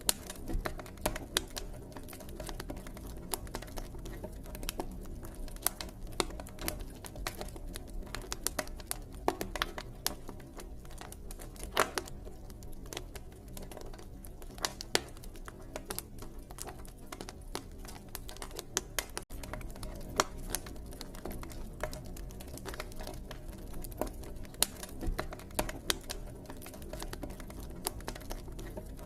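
Campfire crackling: irregular sharp pops and snaps from burning wood, a few louder than the rest, over a steady low background rumble.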